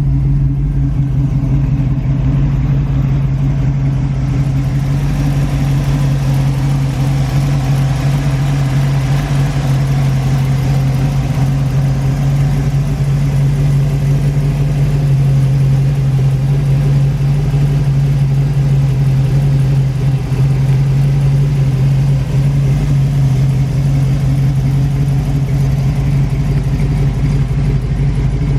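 Chevrolet small-block V8 running steadily at a constant low pitch, with no change in speed.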